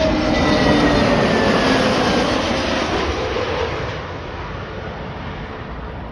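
Jet airliner on final approach passing close overhead: a loud engine roar with a whine that slides down in pitch as it goes by, fading away over the last couple of seconds.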